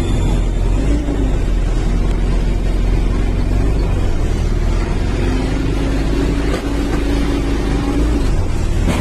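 Motor vehicle engine running, a steady hum whose pitch drifts slightly up and down over a deep, continuous rumble.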